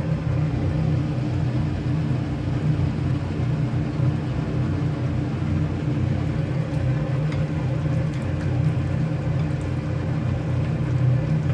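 Steady low hum of a running motor or fan, unchanging throughout, with a few faint tones above it.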